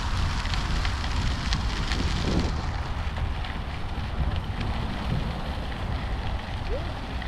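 Wind buffeting the microphone while cycling: a steady low rumble under a crackling rush of noise.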